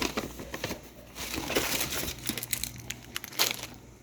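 Grocery bag crinkling and rustling as items are pulled out of it, with small knocks of packages being handled and one sharper knock near the end.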